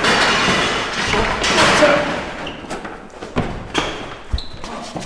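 A loud jumble of bangs and scuffling noise, then several separate thumps and knocks spaced a fraction of a second apart.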